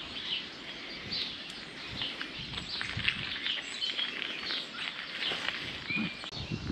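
Small songbirds chirping, with a short clear whistle about six seconds in, over a steady outdoor hiss.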